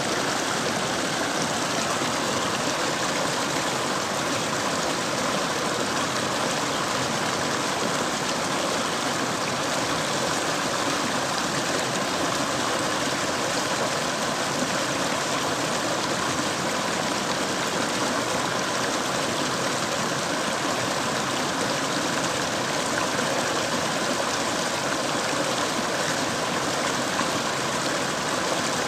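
Mountain river water flowing over rocks in a steady, even rush.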